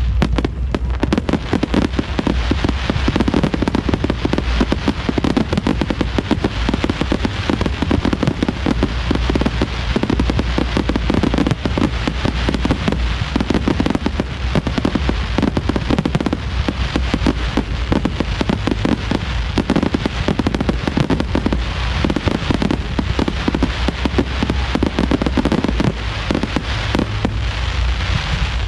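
Fireworks display going off in a dense, continuous barrage: rapid overlapping bursts and crackling with a steady low rumble underneath.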